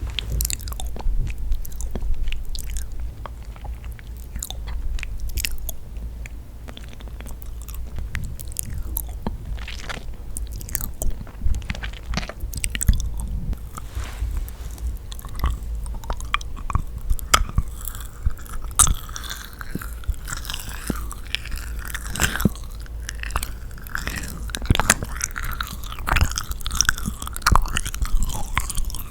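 Close-miked chewing and biting of yakgwa, the sticky honey-soaked Korean fried cookie, with wet, sticky mouth sounds and many sharp little clicks. About two-thirds of the way in, the chewing turns to a denser, sticky crackle.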